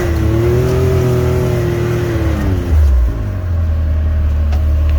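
Side-by-side UTV engine running under throttle. Its revs fall a little over two seconds in, followed by a brief loud low thud and then a steady low drone.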